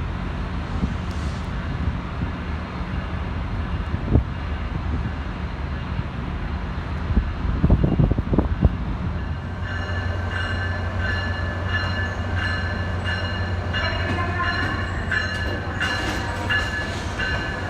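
Train at a station platform: a steady low rumble with a few clunks, then from about ten seconds in a high ringing that pulses on and off in a steady rhythm.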